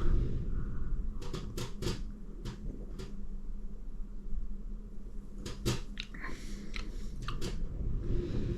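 A man sipping and tasting beer: scattered wet mouth clicks, lip smacks and swallows, in a few clusters, over a low steady background hum.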